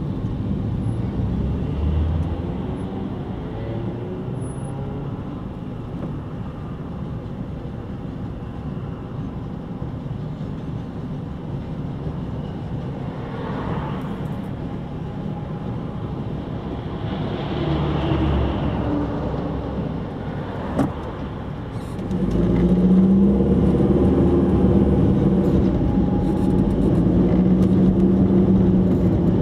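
Freight train wagons rolling past on the track, with a steady rumble of wheels on rail and occasional clicks. About two-thirds of the way through, a louder steady hum sets in under it and runs on.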